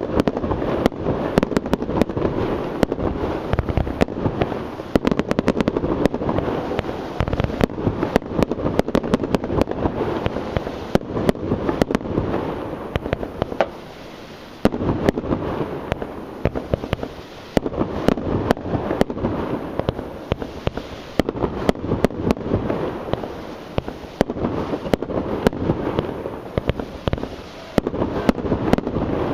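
Firework display in full flow: a dense, continuous barrage of shell bursts, bangs and crackle, easing briefly twice midway before building again.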